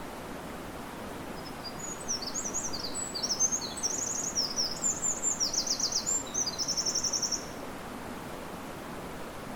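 A small songbird sings one long, fast, high-pitched song of quick notes and trills, starting about a second and a half in and stopping suddenly near three-quarters through, over the steady rush of river water and wind in the trees.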